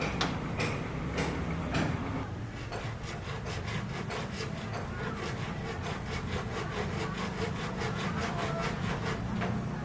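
Hand saw cutting wood: a few slower strokes at first, then quick even strokes about three a second. A steady low hum runs underneath.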